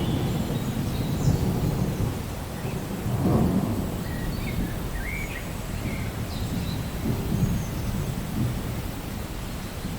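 Steady rain with low, rolling thunder rumbling underneath; the rumble swells about three seconds in and eases again.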